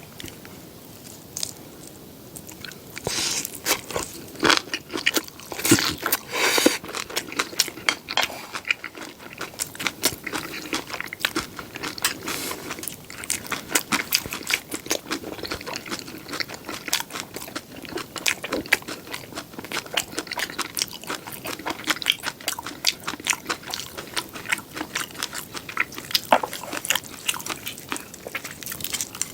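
Close-miked eating sounds: crisp seafood pajeon being bitten and chewed, with dense, irregular crunching and crackling starting about three seconds in.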